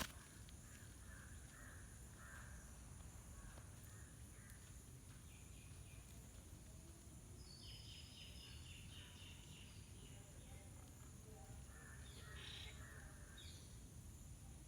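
Faint outdoor ambience with low rumble and steady hiss, over which birds call in short bursts: a run of calls in the first few seconds, a longer buzzy series about halfway through, and more calls near the end.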